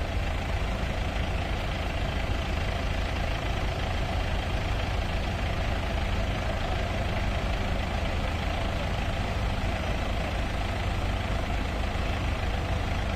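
Tractor engine running steadily, an unbroken deep drone with no change in speed.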